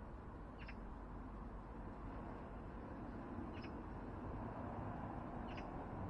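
A bird giving three short high calls, a few seconds apart, over a steady low outdoor rumble.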